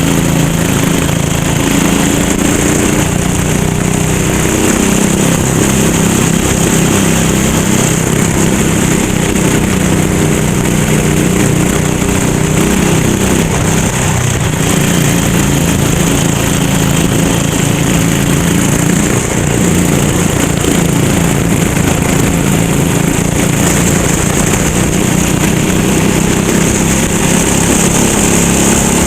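Racing kart's small single-cylinder engine running hard under race load, its pitch rising and falling slowly with the throttle through the corners.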